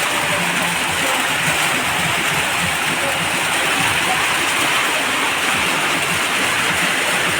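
Rain falling steadily as an unbroken hiss.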